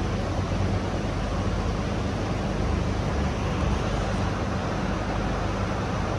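Hong Kong Light Rail Phase III car running between stops, heard from inside the car: a steady low rumble of wheels on the track with an even hiss of running noise.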